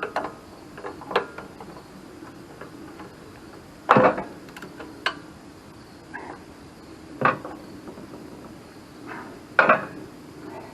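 A wrench clinking and knocking against the sawmill engine's starter bolts as they are loosened: scattered sharp metallic clicks, the loudest about four seconds in and again near the end.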